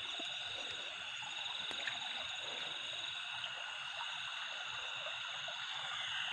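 Night chorus of frogs and insects: a steady, continuous high-pitched trilling, over a faint trickle of stream water.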